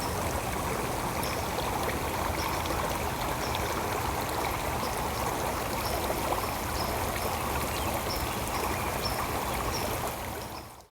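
A stream of water running steadily, with a short high chirp repeating about twice a second. The sound fades out just before the end.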